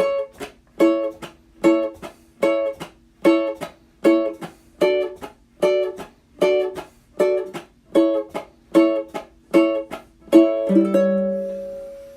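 Ukulele playing short, choppy chords in a steady reggae-style rhythm, about one strong chord every 0.8 s with lighter ones between. About ten and a half seconds in it lands on a final chord that is left to ring and fades away.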